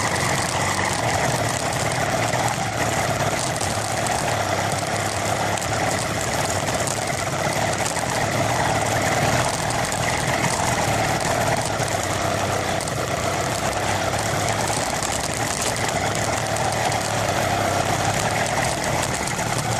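Small engine of a motorized bicycle running steadily at a constant pace.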